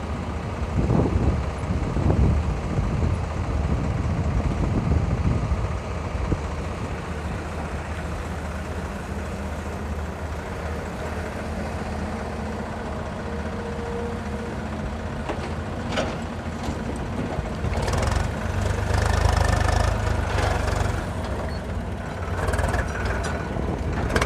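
Eicher 380 tractor's diesel engine running, louder and deeper for the first few seconds and again for a few seconds near the end, with a few short knocks.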